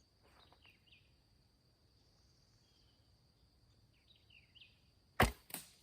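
Steady high insect trill with a few short bird chirps, then about five seconds in a Hill-style longbow is shot: a loud sharp snap of the string on release, followed a moment later by the arrow striking a stump.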